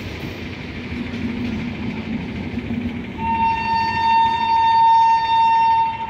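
MEMU electric train coaches rolling past with a steady running rumble; about three seconds in a train horn sounds one long, steady blast lasting about three seconds, louder than the train noise.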